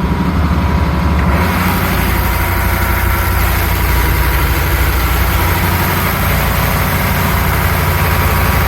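Volvo Penta MD50 marine diesel, its faulty turbocharger removed, running smoothly and steadily at about 700 RPM under way. About a second in, the engine sound grows louder and brighter.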